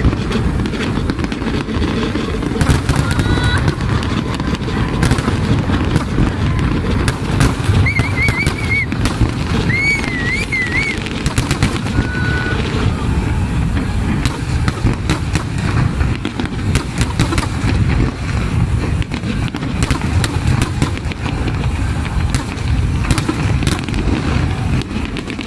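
Fireworks display: a dense, continuous barrage of booming aerial shell bursts with sharp cracks and crackle. A few warbling whistles come about a third of the way in.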